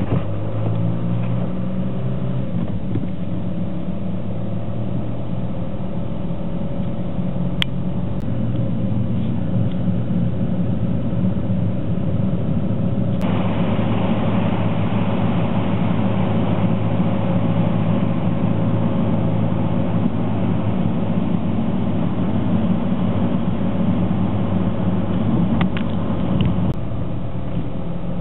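Steady rumble of a vehicle engine and street traffic, with a low hum throughout and a couple of faint clicks.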